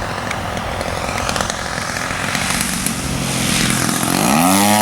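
50cc gas engine of a large RC model airplane running at low throttle, then throttled up near the end: its pitch rises quickly and holds at a higher, louder steady note.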